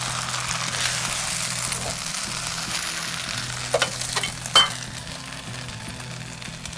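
Chicken chow mein sizzling in a hot wok on a gas burner as the noodles are lifted out, the sizzle fading slowly. Two sharp clicks of the serving utensil against the wok come about four seconds in, the second one the loudest.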